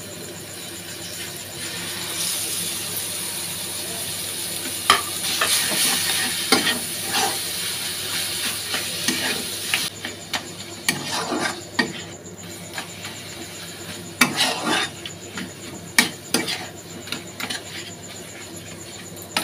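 Raw chicken mince sizzling in hot oil in a kadai while a metal spatula scrapes and knocks against the pan as it is stirred and broken up. The sizzle drops off about halfway through, leaving mostly the spatula scraping and knocking.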